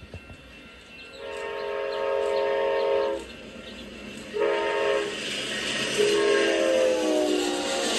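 Amtrak P42DC locomotive's multi-chime air horn sounding three blasts, long, short, long, with the chord dropping in pitch during the last blast as the train goes by. The rush of the passing train builds toward the end.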